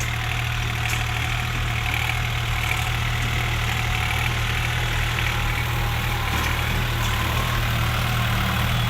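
New Holland 3600-2 tractor's diesel engine running steadily at a low, even speed.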